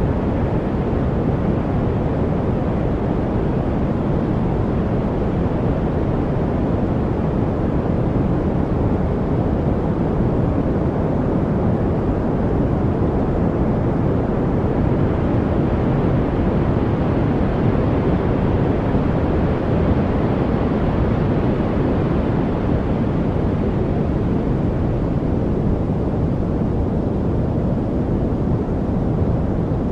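Steady, unbroken masking noise from a study noise track: a deep, even hiss weighted toward the low end, brightening slightly in the middle of the stretch.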